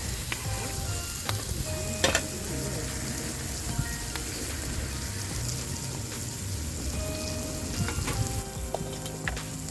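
Food sizzling and frying on a hot iron griddle plate over a campfire, with a few sharp clicks.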